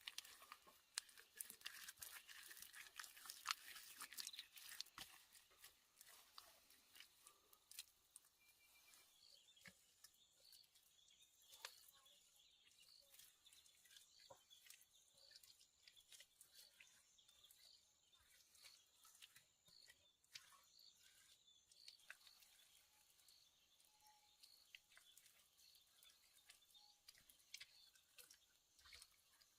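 Faint crunching and crackling clicks, thick in the first few seconds and sparser after, with faint high ticks repeating through the rest.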